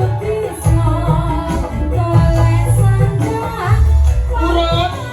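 Live band music with a singer's wavering melody over a heavy, regular bass beat and tambourine.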